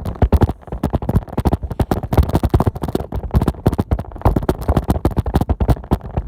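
Rapid, irregular rattling and knocking of an old bicycle and its handlebar-mounted phone while riding over bumpy ground.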